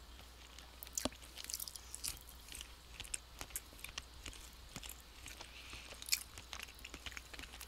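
Mouth chewing a bite of precooked Buffalo-style chicken breast strip: faint, irregular clicks of the jaw and lips.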